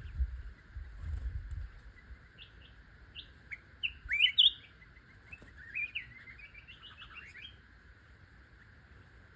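A songbird calling and singing: a few short, sliding whistled notes, a loud burst of quick notes about four seconds in, then a fast chattering run of notes that stops well before the end.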